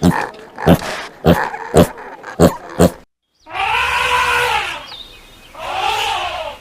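Animal calls: a quick run of short, sharp calls about two a second, then, after an abrupt cut, two long calls that each rise and fall in pitch.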